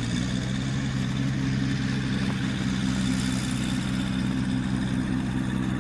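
Dirt bike engine idling steadily, an even, unchanging engine note.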